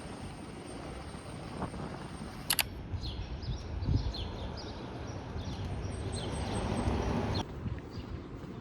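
Steady outdoor background noise, with a run of short high chirps in the middle. Two sharp clicks come about a third of the way in, and the sound changes abruptly near the end.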